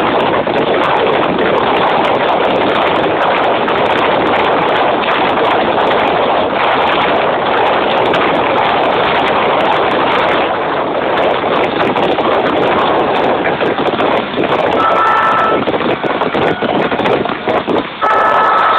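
Fireworks display in full barrage: a dense, continuous run of bangs and crackling, loud enough to overload the recorder into a steady wash of noise. The barrage thins with a few short gaps near the end.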